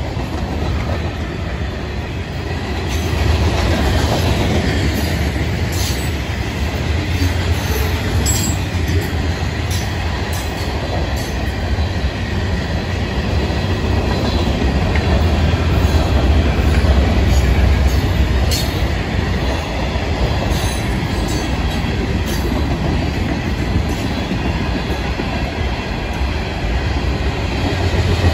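Freight cars of a Florida East Coast Railway train, a mix of tank cars and covered hoppers, rolling past on steel wheels with a continuous rumble and clatter over the rails. There are occasional sharp clanks, and it gets louder about three seconds in.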